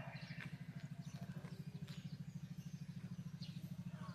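An engine running steadily at idle, a low hum pulsing evenly about a dozen times a second, with faint short high chirps over it.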